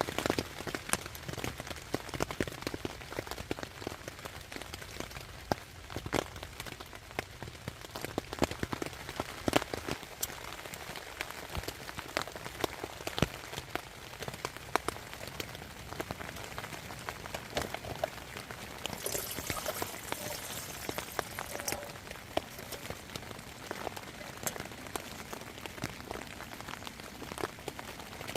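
Heavy rain pattering steadily on a tent, with many sharp individual drop hits. About two-thirds of the way through there is a brief hiss, high in pitch.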